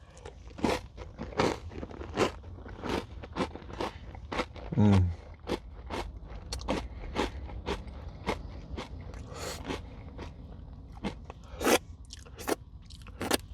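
Close-up crunching and chewing of a crunchy Nature Valley oat granola bar dipped in yogurt and whipped cream, with a crisp crunch roughly every three-quarters of a second. There is a short hum about five seconds in.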